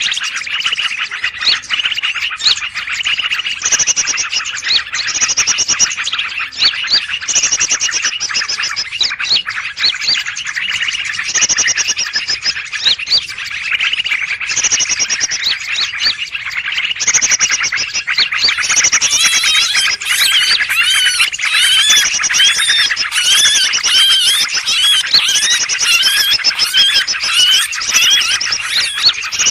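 Dense chorus of many small songbirds chirping and twittering at once, a bird-trapping lure recording of noisy mixed birds used to draw in greater green leafbirds. Short high trills repeat every second or two, and from about two-thirds of the way in a faster warbling joins the chorus.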